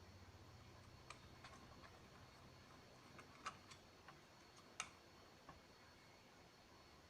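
Near silence with a few faint, sharp clicks and taps of small parts and tools being handled while the induction stove is worked on; the two loudest come about three and a half and five seconds in. A faint low hum fades out about three seconds in.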